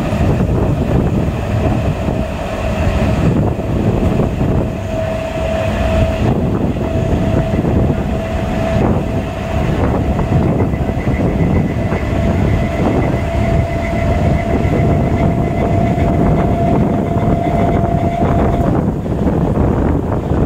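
BEML stainless-steel electric multiple unit (EMU) local train running at speed, heard from on board at an open door or window: a steady rumble of wheels on the rails and rushing air. A steady high whine runs over it and stops near the end.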